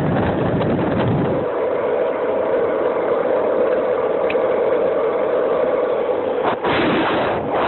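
Skateboard wheels rolling over pavement, a loud continuous rumble with wind buffeting the phone's microphone. A steady hum joins the rumble from about a second and a half in until shortly before the end.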